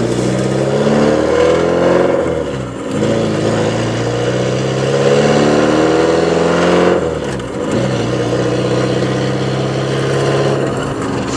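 1983 Porsche 944's 2.5-litre inline-four running through a straight-pipe exhaust, its catalytic converter and muffler cut off. It revs up twice, the second rise longer, falling back sharply each time, then settles to a steady idle for the last few seconds.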